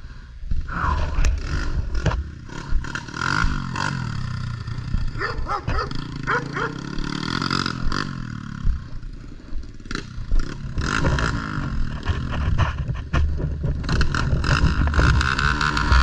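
Small pit bike engine running and rising and falling in pitch as the throttle is worked.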